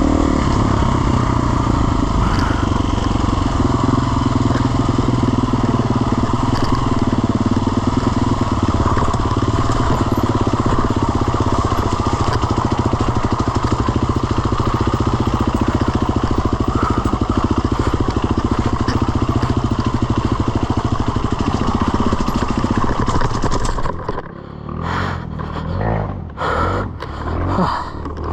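Off-road motorcycle engine running at steady revs through mud riding. About 24 seconds in it drops away, leaving softer, irregular knocks and noises.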